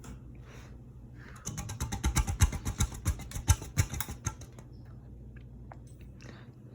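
Hampton Bay Landmark III Plus ceiling fan humming steadily as it begins to spin down. About a second and a half in, a run of rapid clicking and rattling, several clicks a second, lasts about three seconds.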